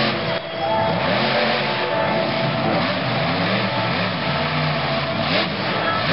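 Monster truck engine revving hard and repeatedly, its pitch rising and falling about once a second.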